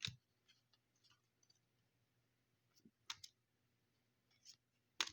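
Faint handling clicks and light taps of trading cards being turned over and set down, with sharper clicks at the start, about three seconds in and near the end.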